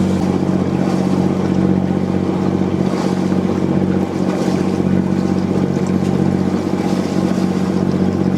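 Sailing boat's inboard engine running at a steady speed under way, a constant low drone.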